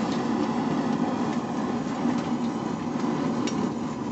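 A forge running steadily: a constant low mechanical drone, with no hammer blows.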